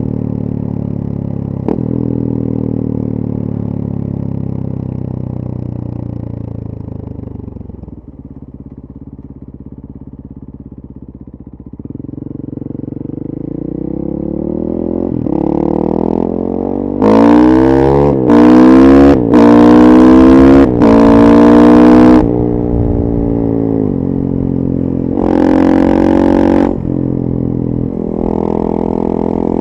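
2014 KTM 450 EXC single-cylinder four-stroke supermoto with a full FMF 4.1 exhaust, ridden. It winds down and runs low, then pulls hard through several gears, its note climbing and breaking briefly at each shift. It backs off sharply, gives one more short burst of throttle and settles to a steady cruise near the end.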